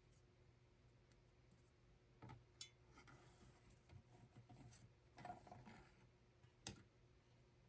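Near silence with faint handling noises: a few small clicks and a stretch of soft rustling in the middle, over a faint steady room hum.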